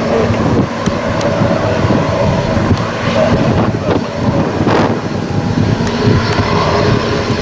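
Jet airliner engines running loud and steady, with wind buffeting the microphone.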